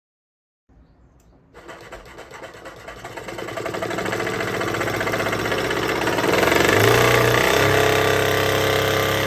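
DC-motor-driven jigsaw table starting up and running, with a dense buzzing machine sound that builds in loudness over several seconds before holding steady.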